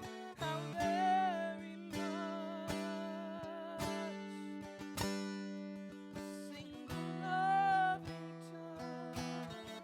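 Live acoustic guitar music: chords strummed and left ringing, with a long wavering melody note held over them about a second in and another near the eight-second mark.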